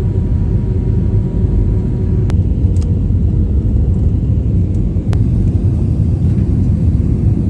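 Steady low rumble of a vehicle driving, with a couple of sharp clicks.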